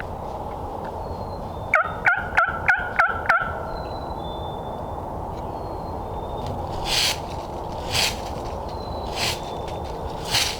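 Turkey yelping: six quick yelps, about three a second, each note breaking from high to low. Four short bursts of rustling noise follow, under faint songbird notes.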